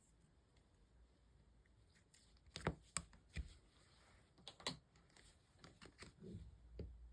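Slime being handled by hand, giving a few scattered soft clicks and sticky taps over near silence.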